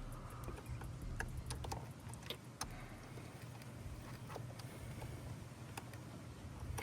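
Faint, scattered clicks and taps, irregular and a second or so apart, from hands working on the truck's light wiring, over a low steady hum.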